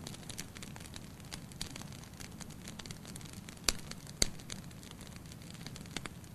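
Wood fire burning in a fireplace: a low steady rumble of flame under frequent irregular crackles, with two louder pops about half a second apart midway.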